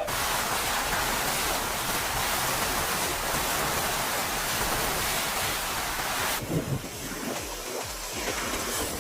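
Steady, even rushing noise, like heavy rain or water, that changes about six and a half seconds in to uneven wind buffeting on the microphone.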